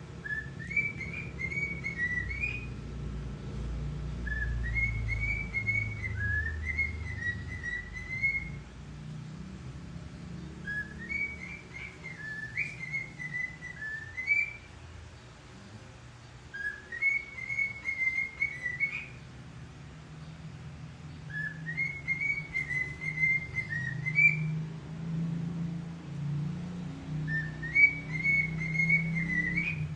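Pet cockatiel whistling the same short rising-and-falling tune over and over, a phrase of two to five seconds about every five seconds.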